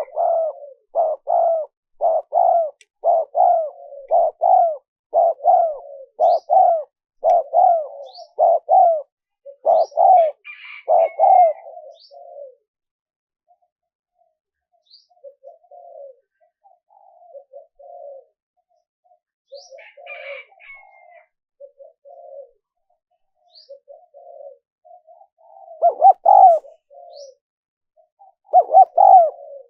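Spotted dove cooing: a fast run of repeated coos over the first dozen seconds, then softer scattered coos, and two loud phrases near the end. Faint high chirps sound above the coos.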